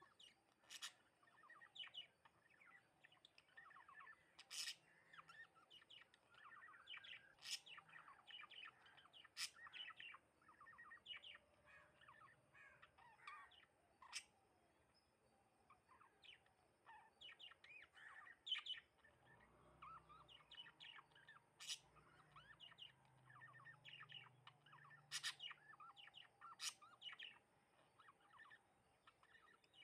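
Several house sparrows chirping: a faint, busy run of short chirps, with no let-up.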